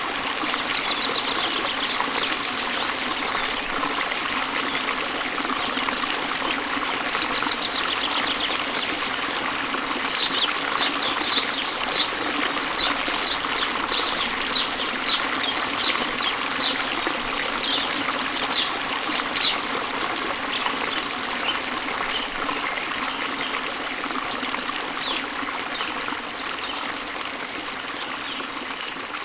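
Steady rushing of falling water. Over it, a bird repeats a short high note, about one and a half notes a second, from about a third of the way in for some ten seconds. The water grows slightly quieter near the end.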